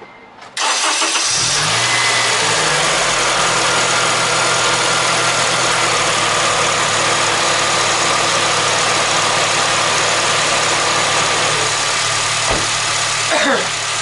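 Car engine started: the starter cranks, the engine catches about a second in and briefly revs up, then settles into a steady idle.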